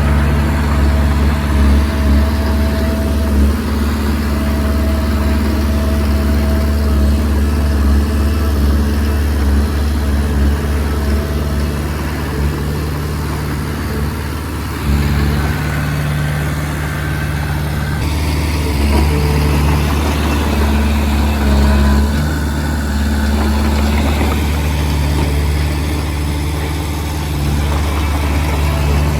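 Komatsu D20P bulldozer's diesel engine running steadily while working, easing off briefly about halfway through and then picking up again.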